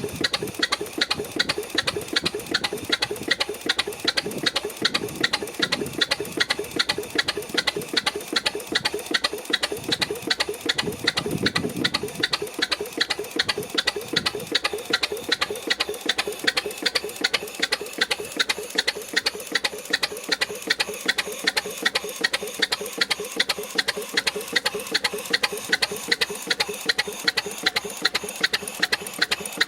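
6hp Frisco Standard double-cylinder stationary engine running steadily, each firing stroke a sharp knock in an even, rapid beat.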